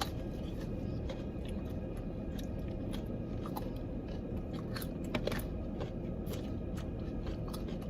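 A person chewing and biting crunchy food, with scattered small crunches and clicks over a steady low rumble.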